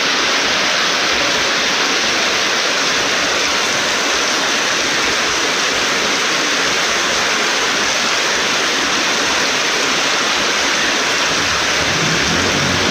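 Heavy storm rain pouring down in a loud, steady hiss. Near the end a low engine hum comes in under it.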